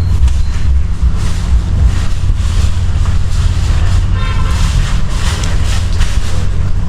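Strong wind rumble on the microphone with the steady road noise of a moving vehicle, and a brief high toot about four seconds in.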